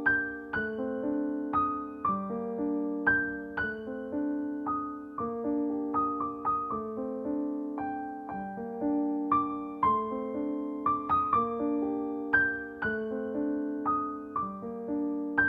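Gentle solo piano music, a slow pattern of struck notes and chords each left to ring and fade.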